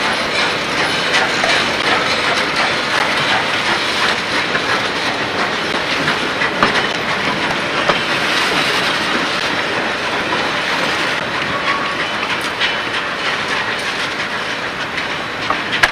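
Passenger coaches of a tourist train rolling past at close range: a steady rumble of steel wheels on rail, with sharp clicks and clanks now and then as the wheels cross rail joints. It gets a little quieter near the end.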